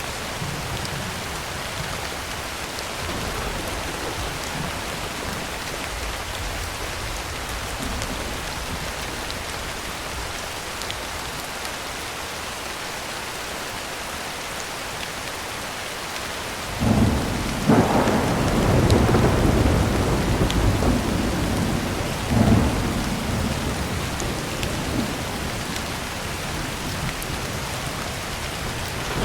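Heavy rain pattering steadily on a tin roof. A little over halfway through, a sudden clap of thunder breaks in and rumbles for several seconds, with a second surge a few seconds later, before the rain alone returns.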